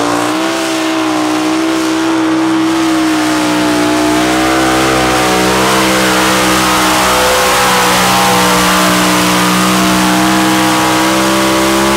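Heavy Modified pulling tractor's engines running at full throttle under load, a loud high-revving note held nearly steady. It cuts off abruptly at the end.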